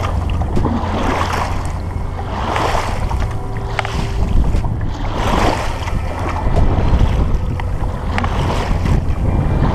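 Kayak paddle strokes splashing in river water, one swell of splashing every second or two, over a steady low rumble of wind on the microphone.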